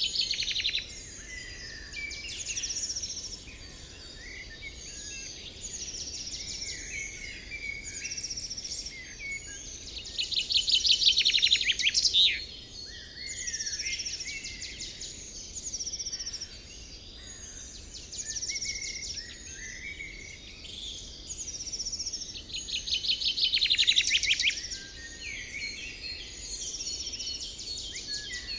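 Several songbirds singing at once, a continuous run of overlapping chirps and short phrases. A loud, fast trill breaks in three times: at the start, about a third of the way in, and again near the end.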